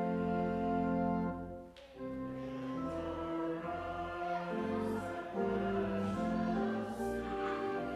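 A closing hymn, the organ playing sustained chords with a deep held bass and the congregation singing along. There is a short break between phrases about two seconds in.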